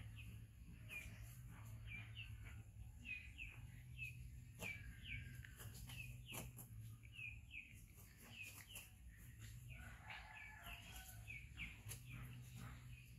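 Faint, repeated short high chirps of a small bird, about two a second, over a low steady hum, with a few soft knocks in between.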